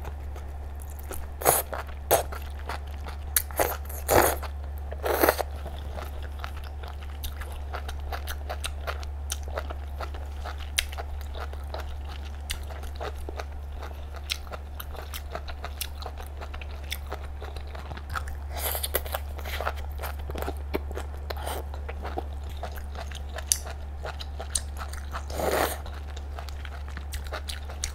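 Close-miked eating sounds: biting and chewing firm, crunchy clam meat. There are many small clicks and a few louder bites scattered through, over a steady low hum.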